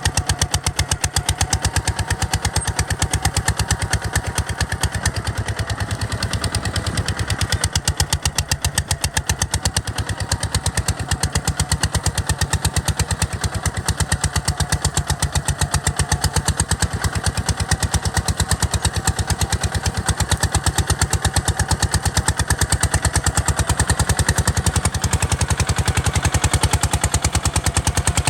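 Kubota RT140 DI single-cylinder diesel engine running steadily at low speed, with an even, sharp knocking beat of about five or six firings a second.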